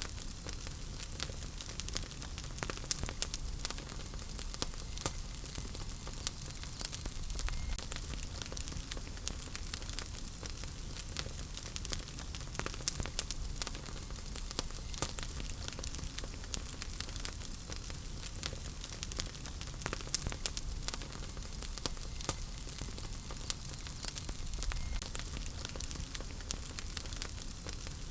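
Wood fire crackling in a fireplace: a steady low rumble and hiss with frequent sharp pops and snaps from the burning logs.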